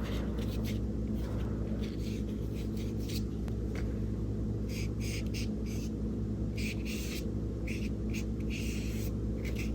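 Short strokes and dabs of a small flat paintbrush on gesso-primed mixed media paper, coming in quick clusters mostly in the second half, over a steady low electrical hum.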